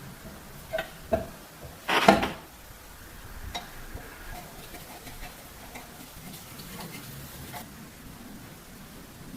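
Small metal parts being handled and clinking: a couple of light clicks, then a louder clatter about two seconds in, followed by faint scattered ticks.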